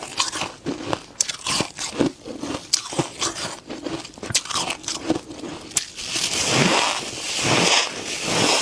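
Freezer frost being bitten and chewed: a quick run of sharp, crisp crunches, then about six seconds in a longer, denser grinding crunch.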